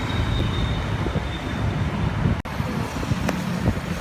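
Outdoor background noise with a steady low rumble, broken by a brief dropout a little past halfway.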